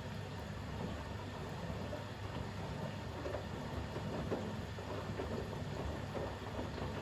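Bosch WAX32GH1 front-loading washing machine in its final rinse: the drum turns, tumbling wet towels through the rinse water in a steady, uneven slosh.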